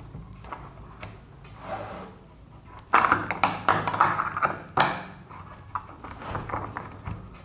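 Irregular metallic clicks and clinks of a wrench tightening the nut on a washing machine trolley's wheel fitting, thickest about three to five seconds in.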